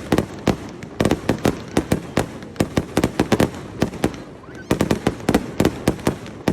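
Fireworks going off in quick succession: many sharp cracks and bangs in irregular clusters, easing briefly a little after four seconds in before picking up again.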